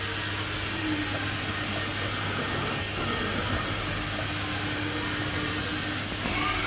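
Grinding machine running steadily: an even whirring hum with a constant low tone underneath.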